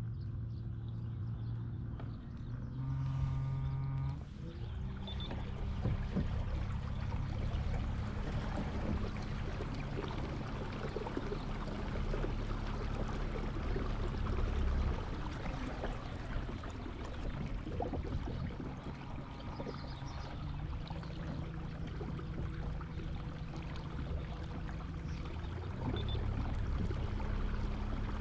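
Boat motor running with a steady low hum that shifts in pitch a few times, over water rushing and splashing past the hull.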